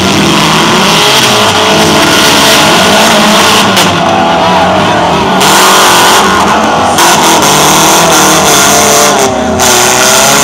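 Demolition derby cars' engines revving hard, several at once, their pitch rising and falling, loud throughout.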